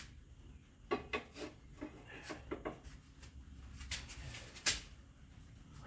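Scattered knocks and clicks of hand tools being picked up and handled, a quick cluster about a second in and one sharp knock near the end.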